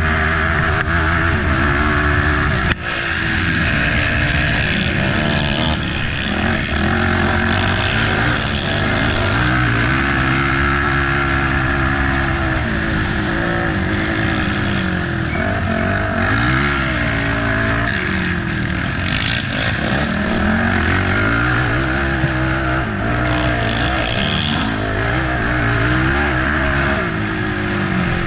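Race ATV engine revving up and down as it is ridden hard, its pitch rising and falling again and again through acceleration and backing off. It drops out briefly about three seconds in.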